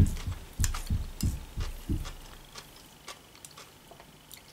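Close-up chewing of food, heard as soft low thumps about three a second for the first two seconds, then fading. After that come a few faint clicks of a fork on a plate.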